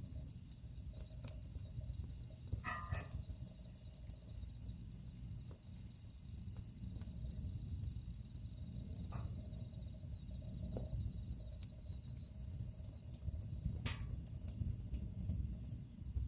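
Wood fire in a fireplace crackling: a steady low rumble of the flames with scattered sharp pops, a louder one about three seconds in and another near the end.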